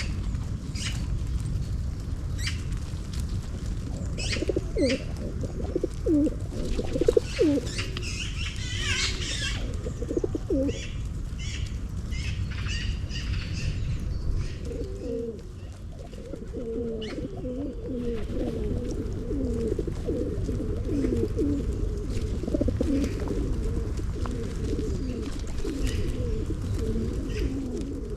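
Feral pigeons cooing, low rolling coos repeating, with more birds cooing almost continuously from about halfway through. A small bird chirps briefly near the middle, and there are scattered sharp clicks in the first half over a steady low background rumble.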